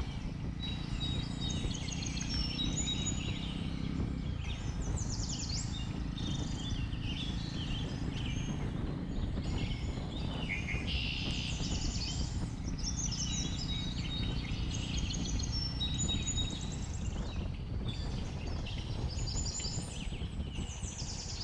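Many forest birds chirping and calling in quick, repeated bursts over the low, steady rumble of a Jawa 42 motorcycle riding downhill.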